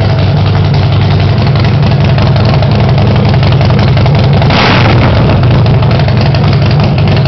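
Harley-Davidson bobber's V-twin engine idling steadily on its first start-up, with a brief rush of noise about four and a half seconds in.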